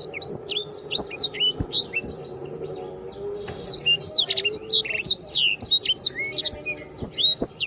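A sanger, a small canary-type songbird, singing a fast, continuous string of sharp chirps and high down-slurred whistles, easing off briefly about two seconds in before resuming. A faint steady hum and a few sharp clicks sound underneath.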